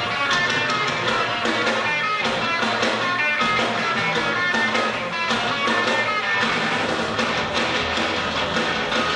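Loud live band music: a noise-rock band playing, with guitar to the fore over drums.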